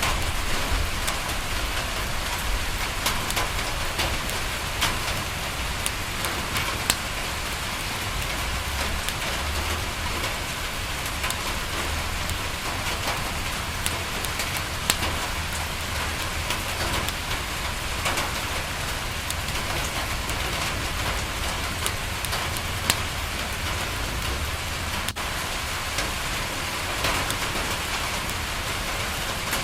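Steady rain falling on window glass, a continuous even hiss, with occasional sharp crackles from a wood fire scattered through it.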